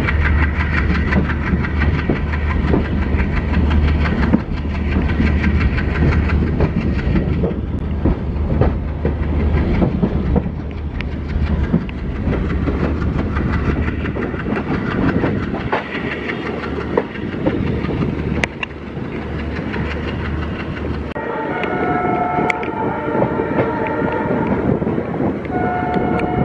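LHB passenger coaches running on the track, a steady low rumble with the wheels clicking over rail joints and points. About three-quarters of the way through, and again near the end, a high multi-tone whine sounds over it for a second or two.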